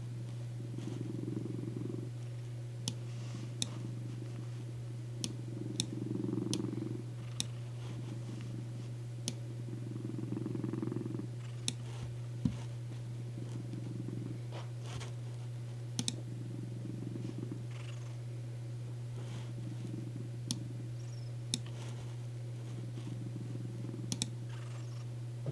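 Domestic cat purring steadily on a lap, swelling and easing with each breath, with scattered sharp clicks of computer keyboard keys.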